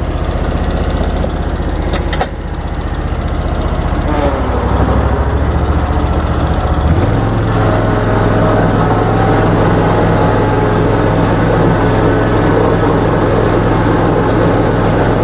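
John Deere riding lawn mower engine running steadily; about seven seconds in its note steps up to a higher, steady pitch. A short click comes about two seconds in.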